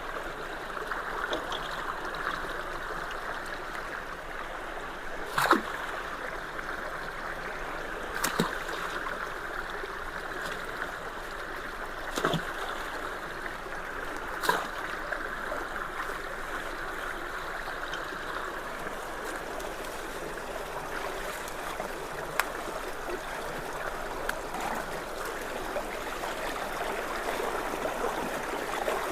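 Floodwater rushing steadily through a debris-clogged culvert. About five short, sharp knocks sound over it, a few seconds apart.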